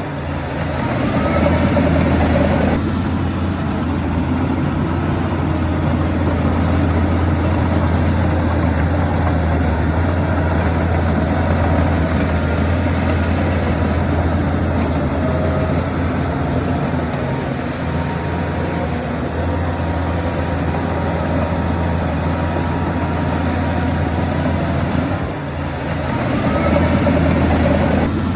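Heavy diesel earthmoving machinery, a bulldozer working fill with dump trucks, running steadily with a deep engine drone. A whining sound rides on top at the start, stops suddenly about three seconds in, and returns near the end.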